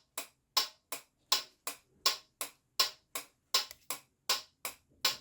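Scooter turn-signal flasher relay clicking steadily, about three sharp clicks a second, alternating louder and softer as the indicator blinks on and off.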